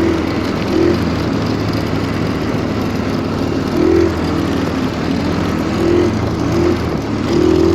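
Stels Kapitan Long snowmobile engine running under load through deep snow, its note swelling briefly about four times.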